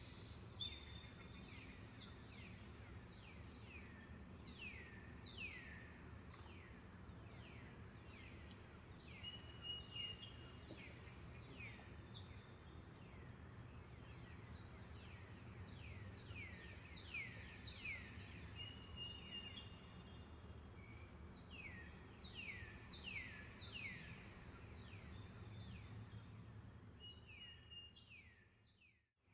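Forest birdsong: many quick chirps that each slide down in pitch, repeated in runs, with a few short high whistles, over a constant high-pitched insect drone and a low rush of flowing river water. Everything fades out just before the end.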